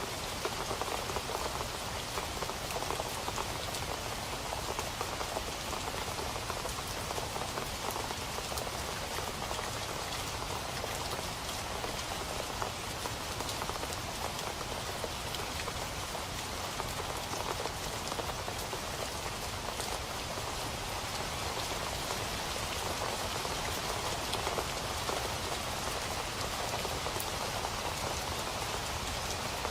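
Steady rain falling on a surface, a dense even patter of many small drops with no pauses.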